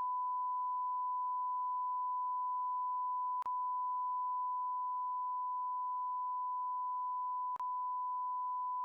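A censor bleep: one long, steady pure beep at a single pitch, laid over a stretch of swearing. It breaks off for an instant twice, about three and a half and seven and a half seconds in.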